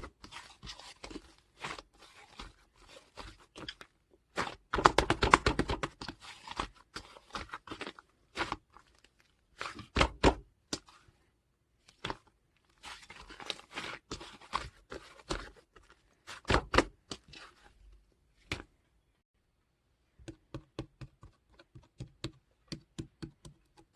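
Close-up crackling, crunching and tearing handling sounds with many sharp clicks, coming in bursts. A short pause comes near the end, followed by a run of quick, evenly spaced taps.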